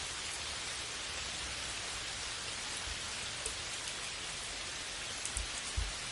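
Steady rain falling, an even hiss with a few sharper ticks and soft thumps, the loudest near the end.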